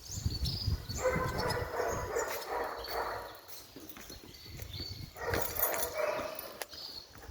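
Small pet birds chirping in short, high notes, with two longer, lower calls from an animal: one about a second in, the other just after five seconds.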